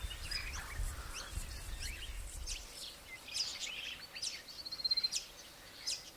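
Several birds calling in short, sharp chirps, with one quick trill about two-thirds of the way through. A low rumble underlies the first couple of seconds, then fades.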